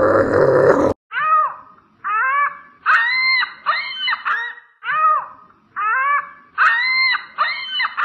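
A loud, rough noise for about the first second, then an animal's short, high-pitched calls, each rising and falling in pitch. There are about ten, in two matching runs of five.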